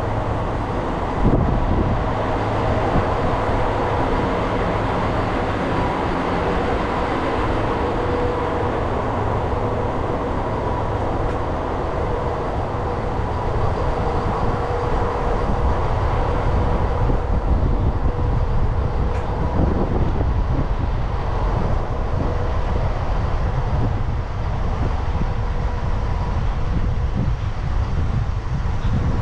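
Moka Railway diesel railcar running, a steady rumble with a faint steady whine and a single knock about a second in.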